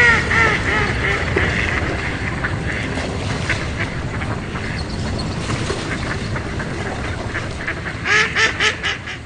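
Waterfowl honking: a quick series of short calls at the start and another rapid run of calls near the end, over a steady rushing background.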